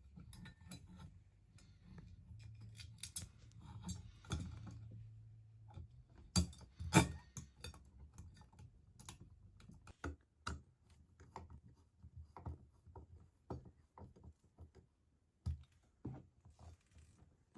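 Quiet, scattered clicks and light knocks of a metal ceiling-fan mounting bracket and its screws being handled and fastened, with a faint low hum in the first few seconds.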